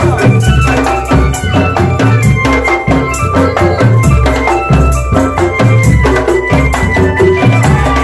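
Drum band music: loud drumming over a deep, repeating bass beat, with rattling percussion and a sustained melodic line.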